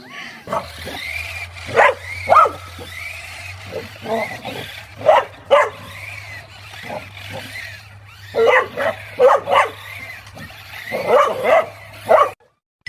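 Dogs barking and yipping in a scuffle: short, sharp barks in irregular clusters, with high whining yips between them. The sound cuts off suddenly shortly before the end.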